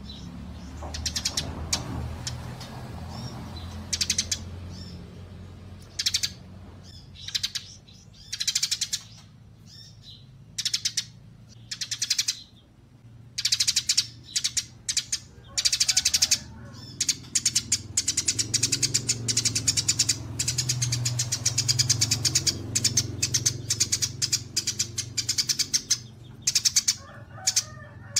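Recorded songbird calls used for song-training: short bursts of high chirps and rapid trills, sparse at first, then thickening into nearly continuous fast chattering about halfway through.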